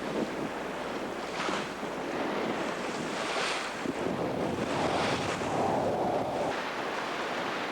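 Wind buffeting the microphone and sea water rushing past the hull of a sailboat under way in a fresh breeze, swelling in several surges.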